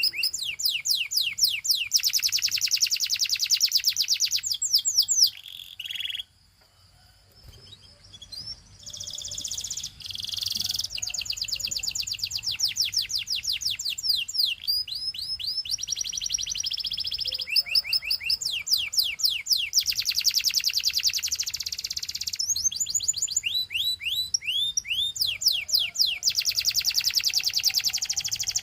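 Domestic canary singing long rolling trills made of fast repeated falling notes, changing from one trill to the next. The song breaks off for about two seconds roughly six seconds in, then resumes.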